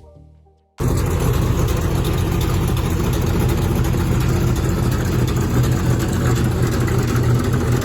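A car engine running loudly and steadily at a constant pace. It cuts in suddenly about a second in and stops abruptly near the end.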